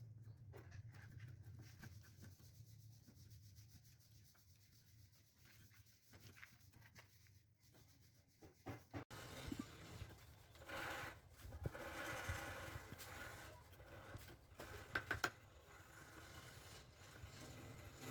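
Faint rubbing and scraping on wood, as in hand-sanding or filing. It gets louder and coarser about nine seconds in, with a few sharp clicks near the end.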